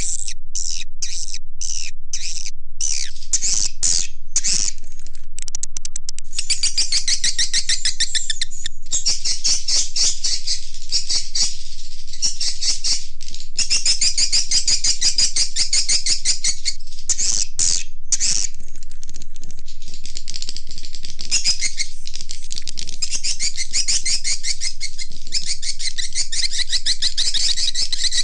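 Swiftlet lure call: edible-nest swiftlets' rapid, high twittering chirps, played to draw birds into a swiftlet house. The first few seconds come in short separate bursts, then the chatter runs almost unbroken, with a few brief breaks.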